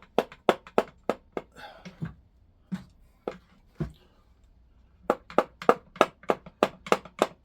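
Sharp, evenly spaced metallic clicks, about four a second, from work on an engine being assembled. The clicking runs for about a second, gives way to a few scattered softer knocks, then starts again about five seconds in.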